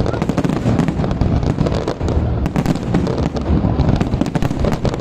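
Fireworks display: many shells bursting in close succession, a dense, irregular stream of cracks and bangs over a continuous low rumble.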